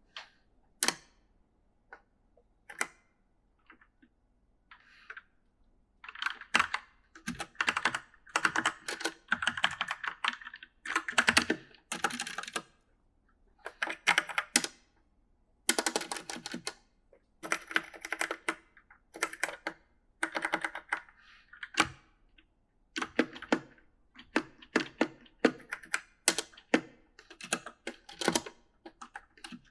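Typing on an E-Element mechanical gaming keyboard: a few scattered keystrokes at first, then from about six seconds in, quick runs of key clicks broken by short pauses.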